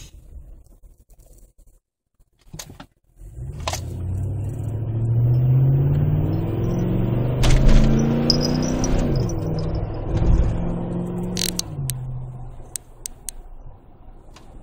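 2008 Chevy Tahoe's V8 exhaust through a Magnaflow aftermarket muffler, the engine pulling and rising in pitch for several seconds, then easing off and fading. Near silence at first, with a couple of sharp clicks just before the engine sound comes in.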